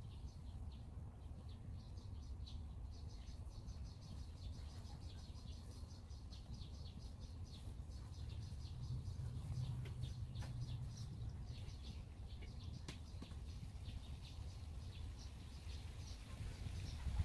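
Small bird chirping in quick repeated series, high-pitched, over a steady low outdoor rumble that swells a little midway.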